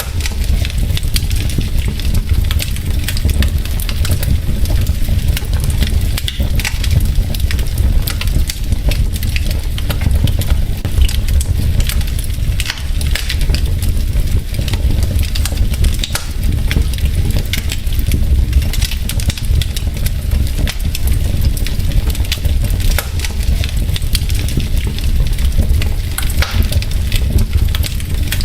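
Wood fire burning in a fireplace: logs crackling with many small snaps and pops over a steady low rumble of the flames.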